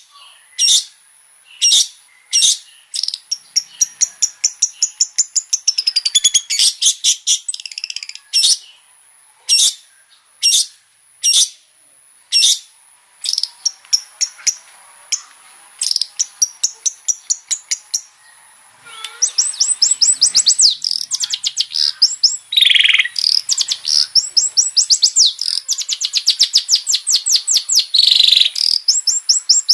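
Long-tailed shrike singing: sharp single calls about one a second at first, breaking into quick chattering runs, then about two-thirds of the way in a dense, continuous song of rapid varied notes, typical of a cendet's mimicked repertoire.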